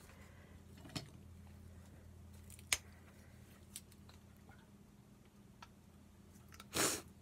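Faint tabletop craft-handling sounds: a few light, isolated clicks and taps as paint and supplies are handled, then a short rustle near the end, over a steady low hum.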